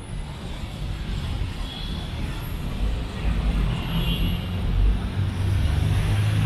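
Road traffic: a heavy vehicle's engine rumbling low, growing louder over the first few seconds and then holding.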